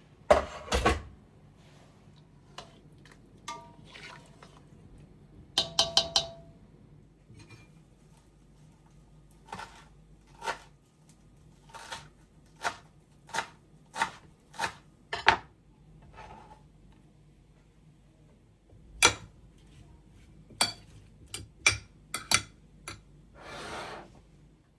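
Kitchenware handled and set down: a series of separate knocks and clinks of dishes and utensils, some ringing briefly, with a short hiss near the end.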